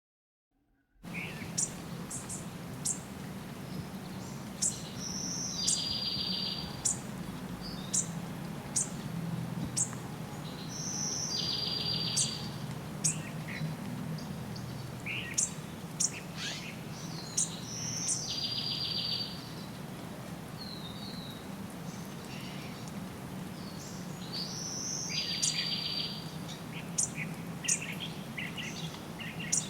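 Songbirds chirping, with short sharp high calls scattered throughout and a short buzzy trill repeated about every six or seven seconds, over a steady low background hum. The sound starts abruptly about a second in.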